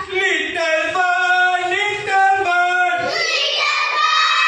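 Children reciting a rhyme together in a sing-song chant, drawing out each word as a long held note.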